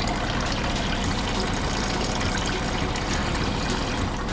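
Liquid pouring out in a steady, unbroken stream: a cartoon tanker truck emptying a pool of coloured liquid.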